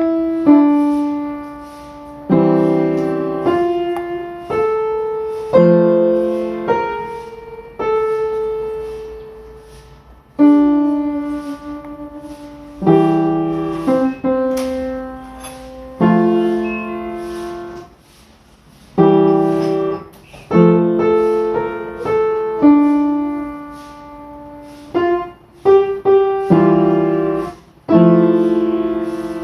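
Solo piano music, slow chords struck every second or two and left to ring and fade.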